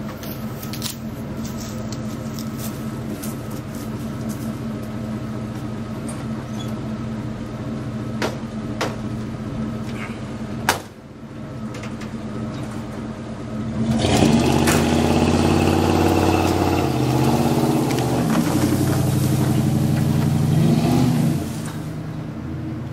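Vehicle engine running steadily. About eleven seconds in there is a sharp click and a brief dip. From about fourteen seconds it runs louder, its pitch rising and falling as it is worked, then settles back near the end.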